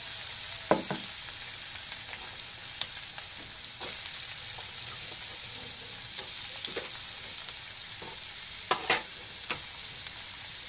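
Onions and green chillies sizzling steadily in hot oil in a kadai, with a few sharp clinks and knocks from stirring, several close together near the end.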